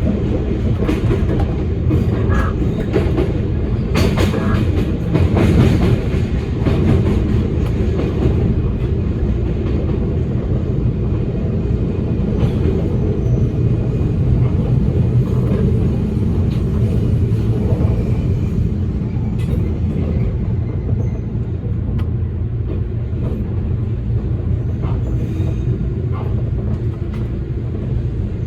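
Toyama Chiho Railway electric train running along the line with a steady low rumble, heard from inside the train. Sharp clicks of the wheels over rail joints come in a cluster during the first several seconds, then thin out.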